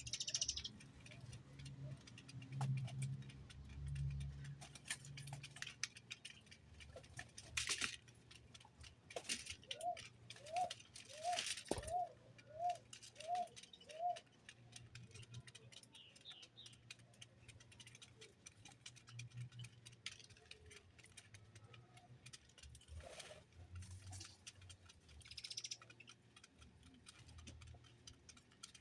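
Small birds feeding: scattered light clicks and rattles of pecking and seed being knocked about, with a few sharper knocks. Near the middle, a bird gives a run of about seven short repeated call notes, about two a second.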